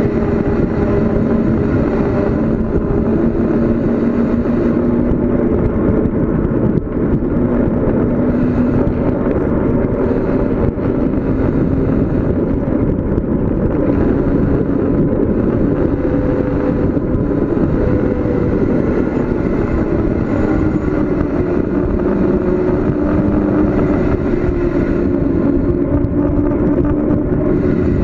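Steady wind and road noise from riding a bicycle downhill on pavement, with a low hum that slowly drifts in pitch.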